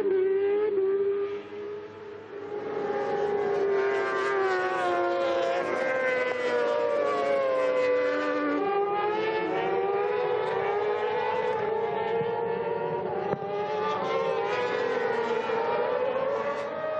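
Several superbike racing engines running at high revs and overlapping, their pitches rising and falling as the bikes accelerate and pass, with a brief drop in loudness about two seconds in.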